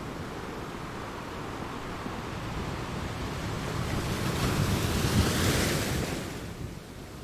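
Sea waves: a steady wash of surf that swells into one wave breaking about five seconds in, its hiss rising high, then draining away near the end.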